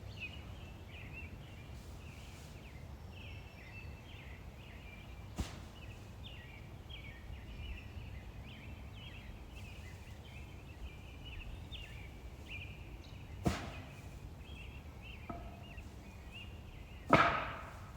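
Continuous high-pitched chirping of small animals, with three sharp knocks: a light one about five seconds in, a louder one past the middle, and the loudest near the end, which rings briefly.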